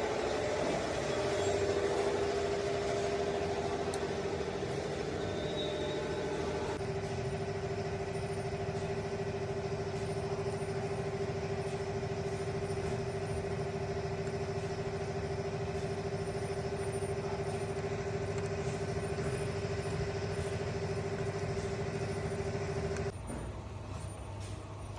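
An engine being cranked by its starter motor without catching: a steady whine with rapid, even pulsing that cuts off about 23 seconds in. The engine will not start.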